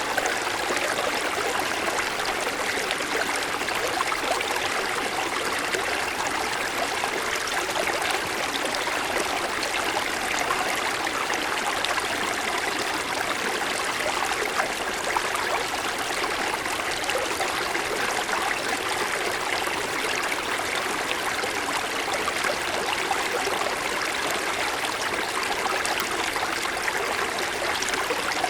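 Small mountain stream flowing over snow-covered stones, a steady babble and gurgle of running water.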